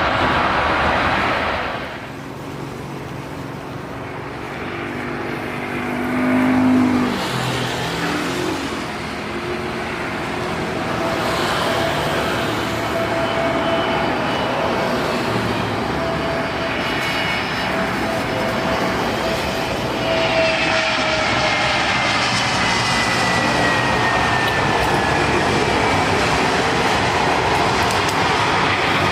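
Jet airliner passing low on landing approach: a steady engine rush, with a whine that slides down in pitch in the second half as the aircraft goes by.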